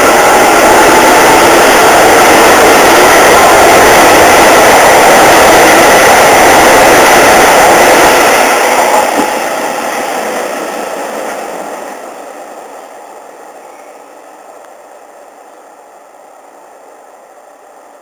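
Keisei 3050 series electric train pulling away from the platform, its wheels and running gear close and very loud for the first eight seconds. It then fades steadily as the train draws away down the line, and is faint by about fourteen seconds in.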